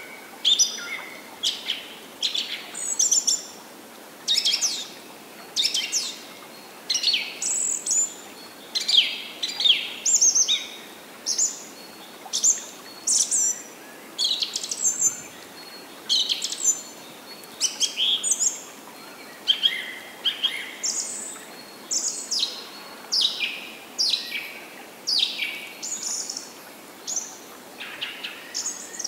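Songbirds chirping and singing in short, quick phrases, about one a second, over a faint steady background hiss.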